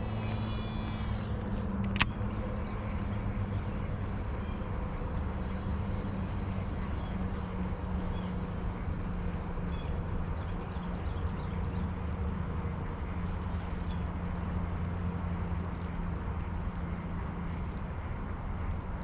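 A steady low engine hum over constant outdoor background noise, fading out near the end, with a single sharp click about two seconds in.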